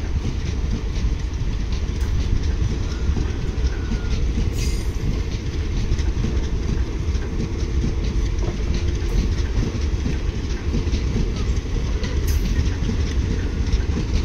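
Passenger coaches of a departing express train rolling past: a steady rumble of wheels on rail, with scattered sharp clicks and clacks as the wheels run over the track.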